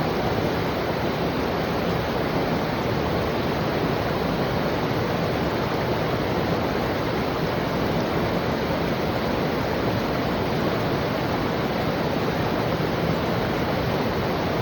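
Flowing river water at a waterfall, a steady, even rush with no breaks or changes.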